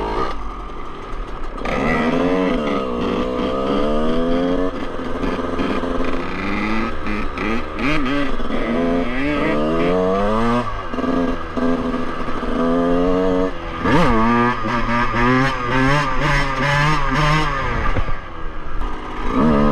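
Two-stroke dirt bike engine revving hard, its pitch climbing and falling again and again between the throttle being opened and shut, with stretches of steady held revs.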